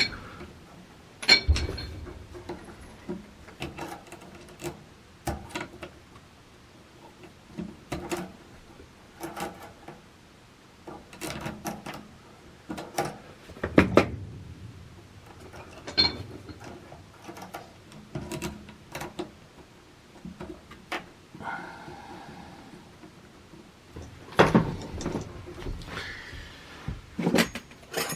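Irregular clicks, clunks and knocks of hand tools and metal parts being handled while working on a water heater's gas valve, with a brief scrape a little past the middle.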